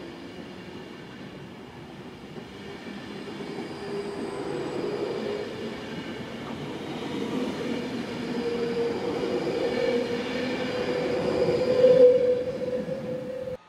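Class 390 Pendolino electric train running past along the platform, its coaches rumbling by with a steady whine. It grows louder and is loudest as the rear cab goes by about twelve seconds in.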